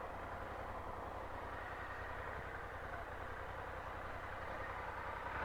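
Steady low engine rumble with a dense, even mechanical noise over it, unchanging throughout.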